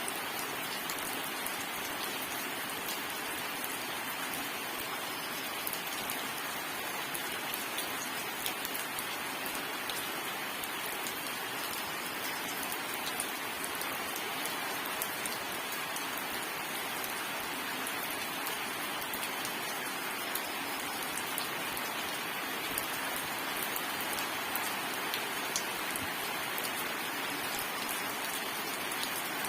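Steady heavy rain falling on a surface, an even hiss with scattered individual drop impacts and no thunder.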